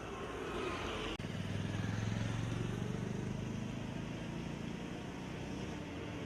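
A motor vehicle's engine hum that rises about a second in and then slowly fades, over a steady rushing noise.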